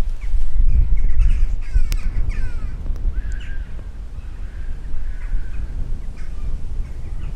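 Crows cawing, several short harsh calls that thin out after the first couple of seconds, over a loud low rumble.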